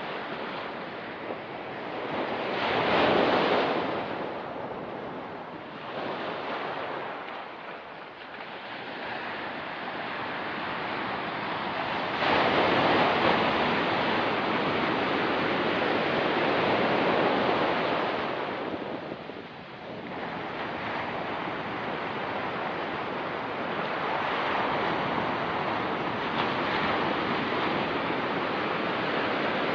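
Ocean waves breaking and washing up a rocky beach: a wave surges in about three seconds in, a longer, louder one from about twelve to eighteen seconds, then steadier surf.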